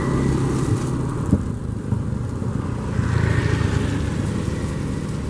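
High-speed Comprehensive Inspection Train rolling past on its own electric power, a steady low rumble of wheels on rail and running gear, with a brief knock just over a second in.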